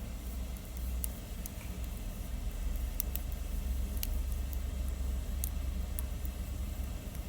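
Campfire burning, with scattered sharp crackles and pops of the wood over a steady low rumble.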